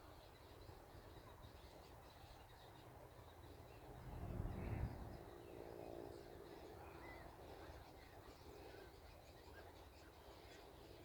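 Faint birds calling, with scattered high chirps and a short harsh caw-like call about five seconds in. A louder low rumble comes just before the call.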